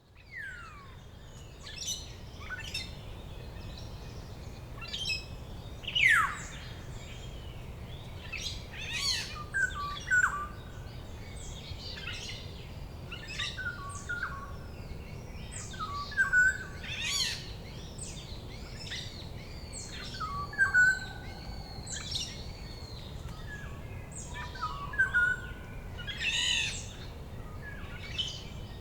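Several wild forest birds calling and singing at once: many short chirps and whistled notes, with a loud falling whistle about six seconds in. A steady low background noise runs underneath.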